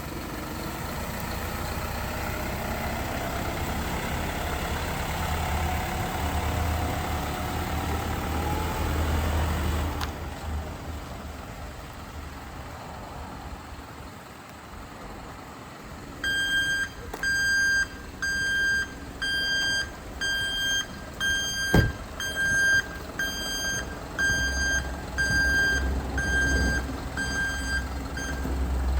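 A 2019 Isuzu NRR ramp truck's 5.2-litre diesel runs, then from about halfway through its warning beeper sounds about once a second, around a dozen beeps, with one sharp knock among them.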